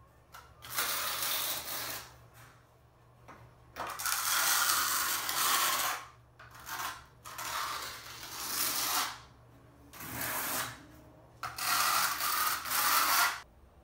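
A trowel scraping modified thin-set mortar across cement board: six gritty scraping strokes, each a half-second to two seconds long, with short pauses between them.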